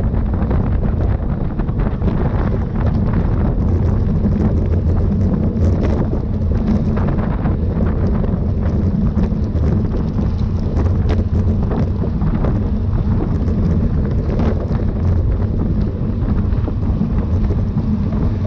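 Steady wind rushing over the microphone of a rider's camera on a racing bicycle at speed, a loud low rumble that does not let up.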